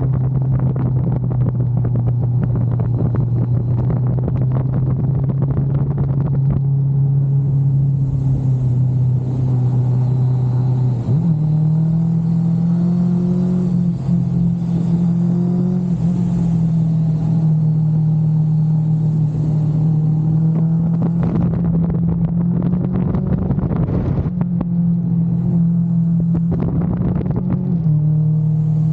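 Kawasaki GTR 1400's inline-four engine running at a steady cruise, its pitch stepping up about eleven seconds in and dropping back near the end.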